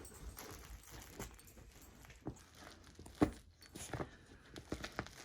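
Dog chewing and tearing at a stuffed plush toy: faint scattered clicks and rustles, with one sharper knock about three seconds in.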